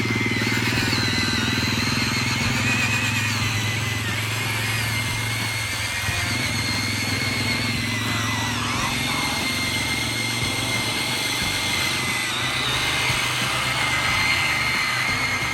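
Radio-controlled construction models' electric motors and gearboxes running, a steady high whine over a low hum.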